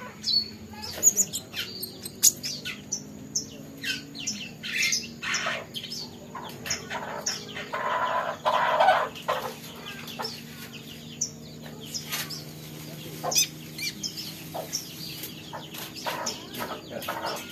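Small songbirds giving many short, sharp chirps in irregular runs, with a denser stretch of calling about eight seconds in, over a faint steady hum.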